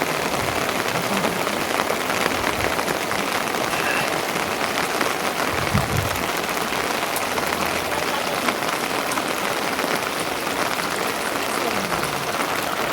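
Steady rain falling in a dense, even patter, with a brief low thud about six seconds in.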